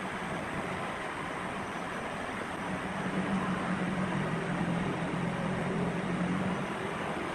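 A machine running steadily, with a low hum that grows stronger about three seconds in.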